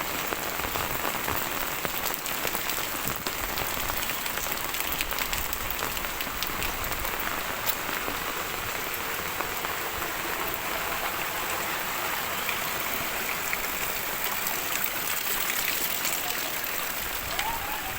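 Heavy rain falling steadily, a constant hiss with many sharp ticks of individual drops hitting surfaces.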